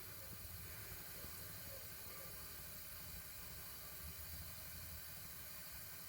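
Faint steady hiss with a low hum and no distinct events: quiet room tone.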